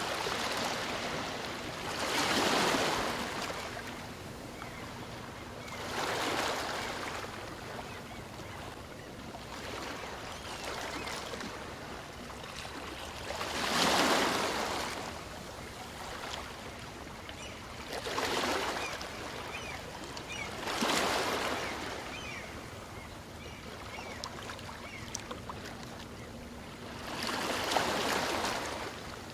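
Small waves on a calm sea breaking and washing up a beach. A surge swells and fades every few seconds over a steady hiss of water, with the loudest surge about halfway through.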